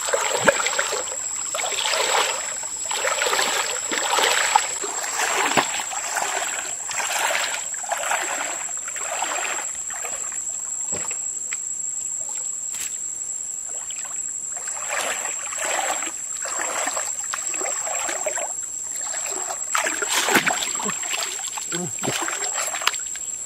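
Water splashing and sloshing in repeated surges, about one a second, thinning out in the middle and picking up again toward the end, over a steady high-pitched whine.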